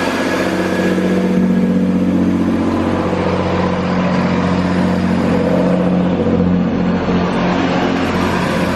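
Diesel engine of a Chiltern Railways diesel multiple unit running under power, a steady low hum.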